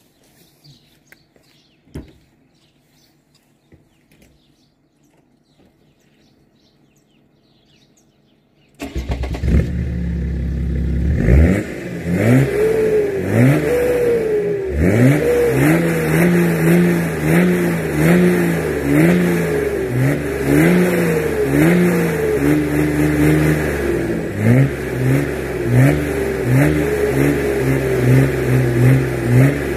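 Near silence for the first several seconds, then a BMW X3 3.0d straight-six diesel starts with a sudden loud burst. It is revved over and over through a 3-inch straight-pipe exhaust with no catalytic converter, the pitch climbing and falling about once a second.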